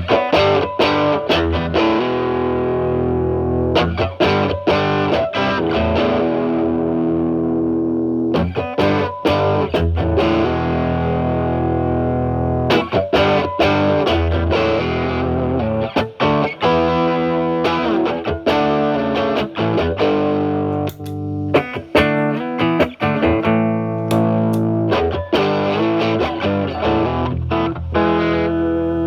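Stratocaster with single-coil pickups played through a Timmy overdrive pedal with its gain at maximum, into a Marshall Valvestate amp's clean channel: distorted electric guitar with picked notes ringing on.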